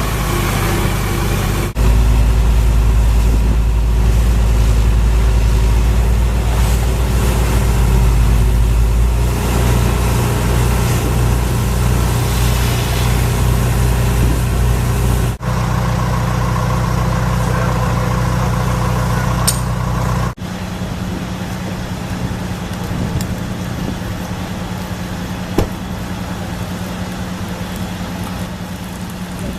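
Heavy fire-apparatus engines idling, a steady low hum whose pitch and loudness change abruptly about 2, 15 and 20 seconds in.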